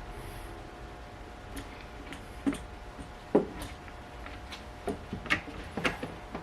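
Irregular light clicks and taps from hands handling tools and wheel-bearing parts at the bench, with one sharper knock about halfway through.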